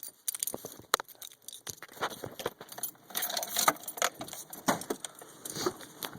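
Keys jangling with irregular metallic clicks and knocks, a sharp knock about a second in, as a pickup's hood is opened; the engine is not running.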